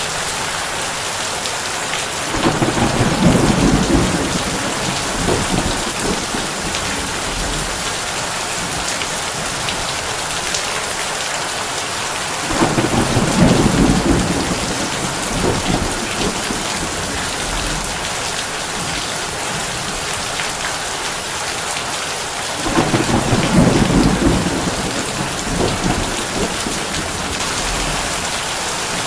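Heavy rain drumming steadily on a tin roof, with three rolls of low thunder about ten seconds apart, each swelling and fading over a few seconds.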